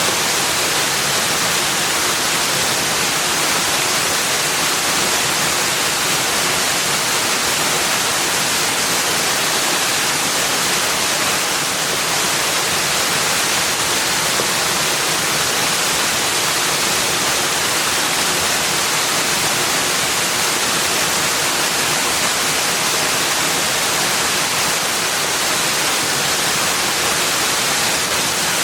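Steady, even rushing of water, holding the same level throughout with no distinct events.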